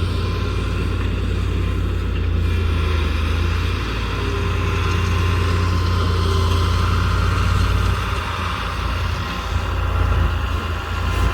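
A vehicle or machine engine running steadily, a strong low hum that eases slightly about eight seconds in.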